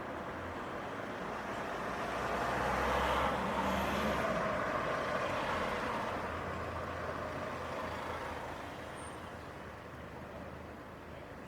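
Motor vehicle passing on a city street: engine and tyre noise swelling to a peak about three to four seconds in, then fading away.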